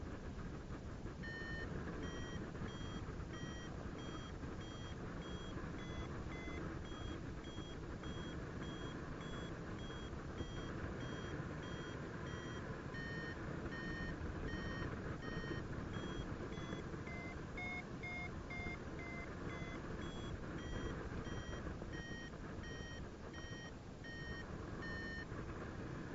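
A paragliding variometer beeping in short repeated beeps, about one and a half a second, the pitch shifting up and down and highest around the middle. Beeps like these signal that the glider is climbing in lift. Steady wind rush on the microphone lies underneath.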